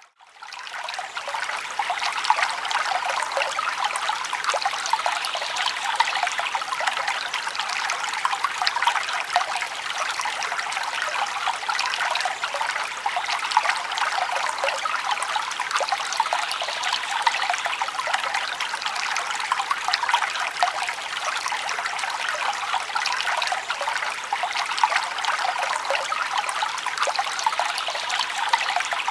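Forest brook flowing over stones: a steady rush of water with many small splashes and trickles. It cuts out briefly at the very start and fades back in.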